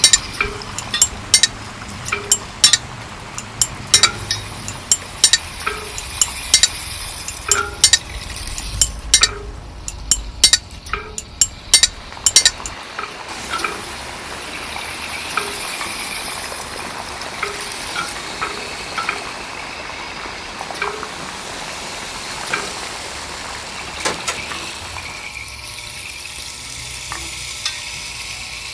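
Many sharp clinks and taps at an uneven pace over a steady hiss. The clinks come thickly for about the first twelve seconds, then thin out while the hiss carries on.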